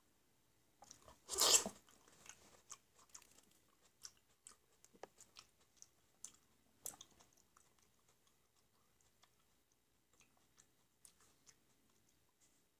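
Close-up mouth sounds of a person biting into and chewing peeled black grapes: one loud bite about a second and a half in, then soft clicking chewing sounds that thin out over the second half.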